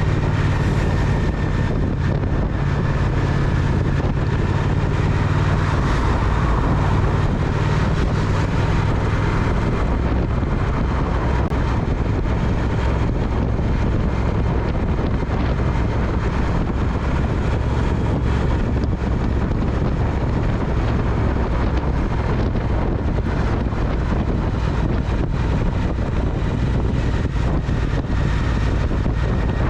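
Triumph Speed Twin's parallel-twin engine running steadily while riding, under wind noise on the microphone. About ten seconds in, the engine note settles lower.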